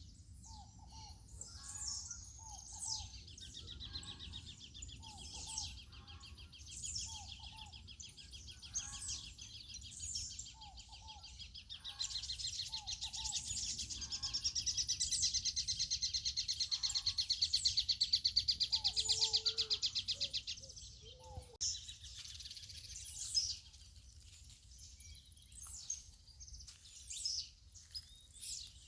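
Outdoor morning birdsong: scattered high chirps and a repeated short, low two-note call, with a long, fast, high-pitched pulsing trill that starts a few seconds in, swells loudest in the middle and stops about two-thirds of the way through. A steady low background rumble lies under it all.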